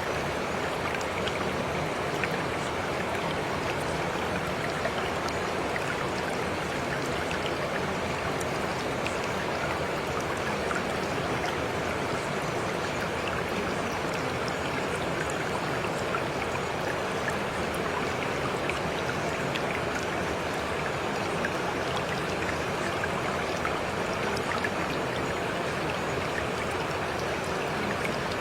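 Steady rain: an even hiss with many small scattered drop ticks.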